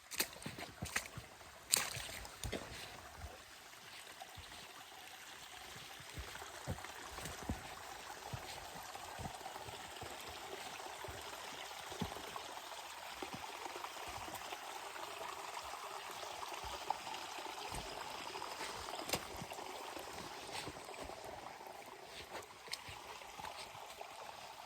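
Running water of a small forest stream, a steady rushing that grows louder through the middle and eases off near the end, with scattered sharp clicks.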